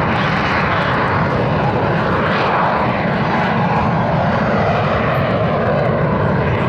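Jet aircraft engine noise, loud and steady.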